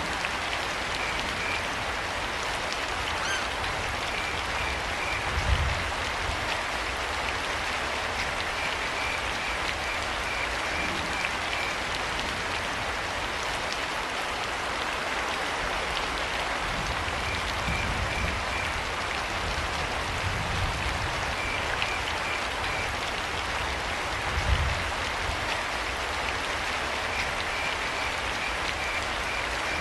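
Steady rain falling, with a cricket chirping now and then in short trains of quick, high pulses. Two brief low thumps stand out, about five seconds in and about five seconds before the end.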